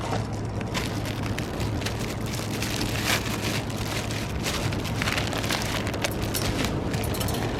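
Wood fire crackling: a dense run of small pops over a steady hiss, with a couple of sharper pops.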